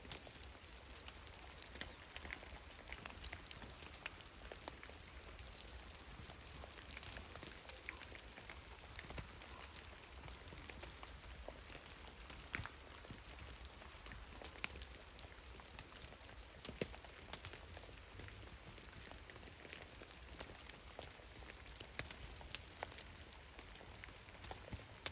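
Meltwater drops falling from melting snow in a forest, pattering irregularly as many separate small drips and taps over a faint steady hiss.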